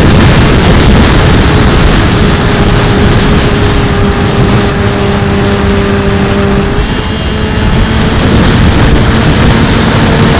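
Heavy wind noise rushing over the onboard camera of a Bixler 2 RC plane in flight, with the steady whine of its Turnigy electric motor and propeller underneath. The motor's pitch changes about two-thirds of the way through.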